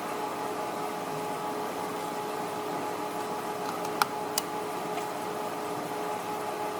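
Steady mechanical hum, with two sharp clicks about four seconds in, a little under half a second apart.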